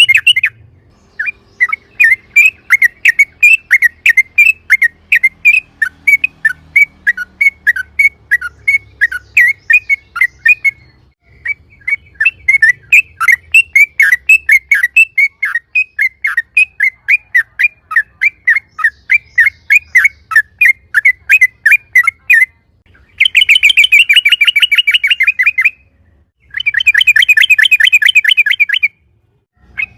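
Yellow-vented bulbul (trucuk) singing: a long string of quick, repeated chirping notes, about three or four a second, breaking off briefly near the middle, then two fast, dense rattling runs near the end.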